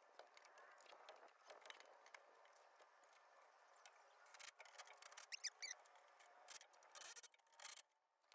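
Near silence, with faint scattered clicks and a few faint high chirps a little past halfway.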